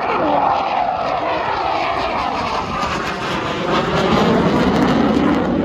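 Aircraft engine noise as a plane flies past, a loud steady rush that swells slightly and deepens toward the end.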